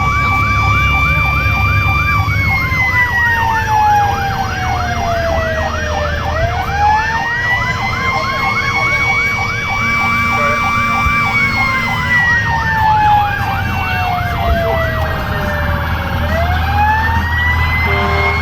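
Fire engine sirens running on a response: a slow wail rising, holding and falling over about ten seconds, layered with a fast yelp of about four to five sweeps a second that stops about fifteen seconds in. The truck's engine rumbles underneath.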